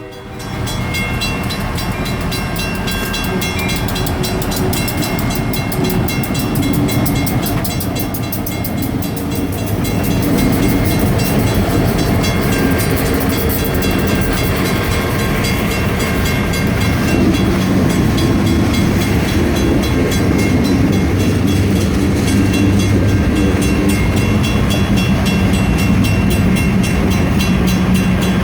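Freight train passing a grade crossing: a pair of GP38-2 diesel locomotives running by, then freight cars rolling over the rails, louder from about ten seconds in. Crossing bells ring steadily throughout.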